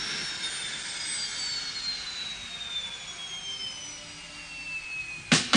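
Jet engine's high whine sliding slowly down in pitch and fading, over a rushing hiss; a drum kit starts hitting just before the end.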